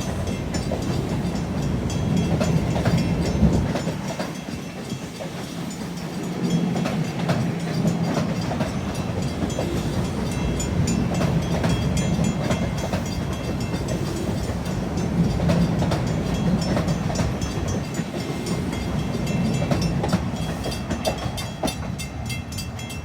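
Long Island Rail Road M7 electric multiple-unit train passing close by: a steady rumble of wheels on rail with clicks from the rail joints, swelling every few seconds as each car goes by.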